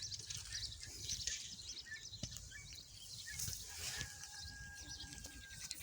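Outdoor rural ambience: wind rumbling on the microphone, with scattered faint high chirps. About four seconds in, a faint steady tone is held for nearly two seconds.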